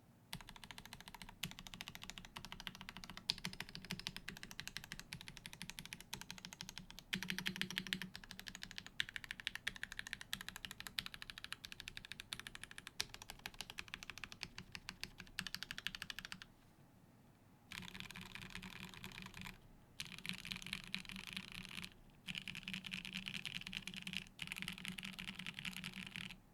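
Fast typing on a TGR 910 ME custom mechanical keyboard with lubed Opblack switches in a top-mounted carbon-fibre plate, no foam inside, and GMK keycaps: a dense stream of key clicks. It stops for about a second around two-thirds of the way through, then comes back in three short fast bursts with brief gaps between them.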